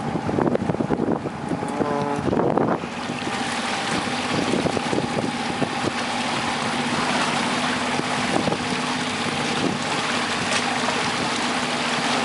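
A boat's outboard motor running steadily underway, with water rush and wind buffeting the microphone; the wind is gustier in the first few seconds.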